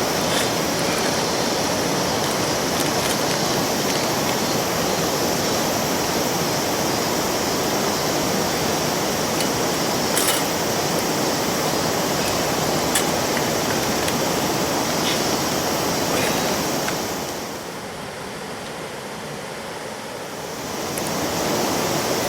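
Steady rushing of river water, with a few faint clicks about 10 to 15 seconds in. The rushing drops in level for a few seconds near the end, then comes back.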